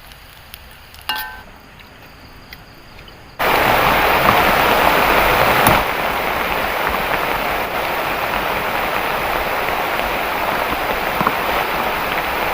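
Heavy rain pouring in a steady roar that starts abruptly about three seconds in. Before it there is quieter forest ambience with a short pitched call about a second in.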